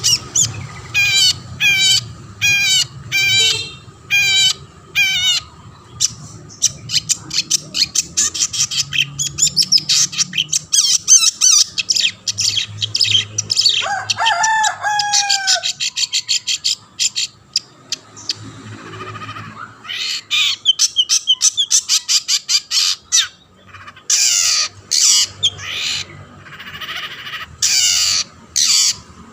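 Long-tailed shrike (cendet) singing continuously: a run of repeated down-slurred notes about two a second, then fast, varied chattering, with a lower slurred call about halfway through.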